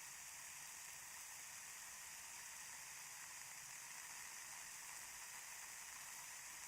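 Ear candles burning in both ears at once: a faint, steady hiss.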